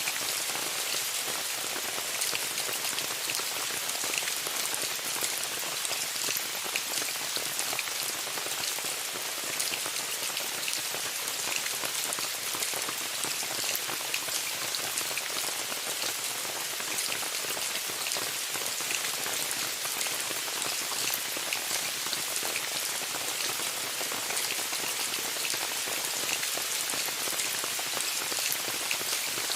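Steady rain falling on a tent: an even hiss dense with many small, sharp drop hits, with no change in strength.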